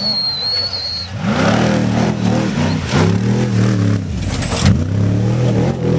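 Off-road race truck's engine revving hard as it races past, the pitch climbing and dropping twice as the driver shifts or lifts off.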